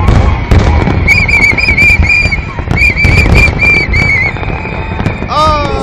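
Fireworks finale: shells bursting in a dense, continuous barrage of loud booms. Over it a high warbling whistle repeats in short pieces for a few seconds, and a few falling tones are heard near the end.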